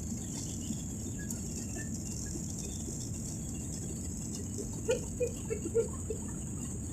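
Steady drone of a jet airliner's cabin in flight. About five seconds in, a quick run of five or so short rattling knocks.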